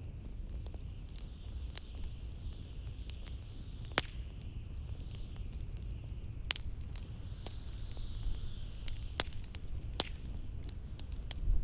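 Wood fire crackling with irregular sharp pops, the loudest about four seconds in, over the steady low rumble of blizzard wind and a high hiss that swells and fades.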